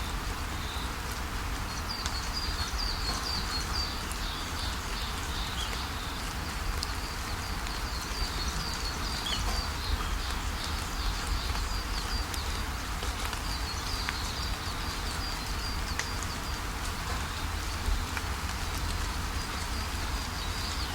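Steady rain with a low rumble underneath, and a small bird giving runs of quick, high chirps through most of it.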